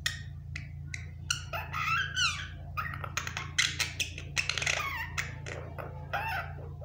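Pet myna chattering: a quick run of clicks, chirps and whistles, several of them sliding up and down in pitch.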